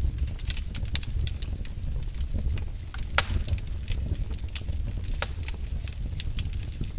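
Wood fire burning in a fireplace: irregular crackles and sharp pops over a steady low rumble, with one louder pop about three seconds in.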